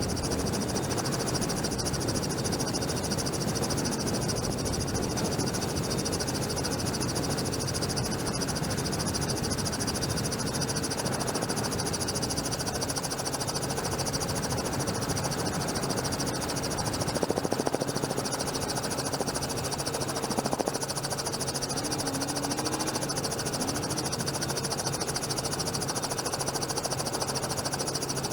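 Helicopter noise heard from on board: a constant drone with a steady high hiss on top, swelling briefly louder twice past the middle.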